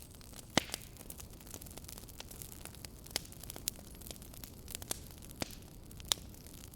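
Wood fire in a fireplace crackling: scattered sharp pops over a steady low rush, the loudest pops about half a second in and near the end.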